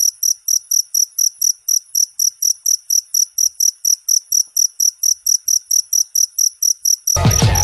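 Cricket chirping steadily in a fast, even rhythm of about four high-pitched chirps a second. Near the end, music with a heavy beat cuts in abruptly over it.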